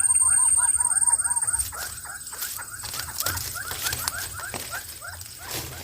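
Young bird-of-prey chicks giving rapid, repeated high chirping calls, several a second, which grow quieter after about a second and a half.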